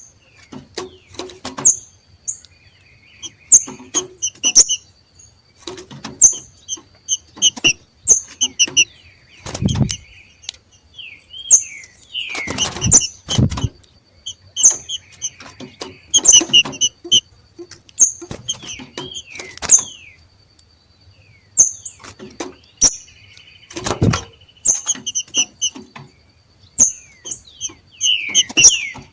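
Green-winged saltators (trinca-ferro) 'macheando': bursts of sharp high chirps and short downward-sliding notes every second or two, mixed with sharp clicks. This excited calling marks birds coming into breeding condition and contesting territory.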